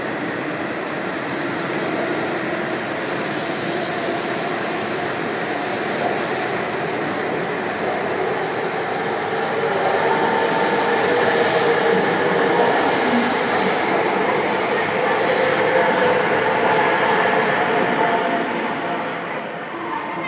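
E5 and E3 series Shinkansen trainset pulling out of the station alongside the platform: a steady rolling rumble of the cars going past, growing louder about halfway through as it gathers speed, with a thin whine over it, then falling away near the end.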